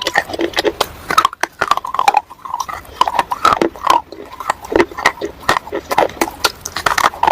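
Close-miked biting and chewing of dry roasted clay and white slate: rapid, sharp, crisp crunches with short mouth noises between them.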